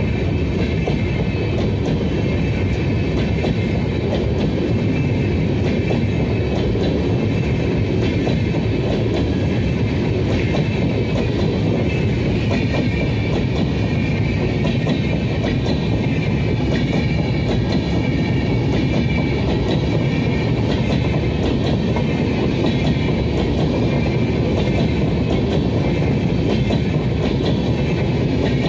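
Passenger coaches of an express train running past at speed close by: a loud, steady rumble of steel wheels on rail with a rapid clickety-clack running through it.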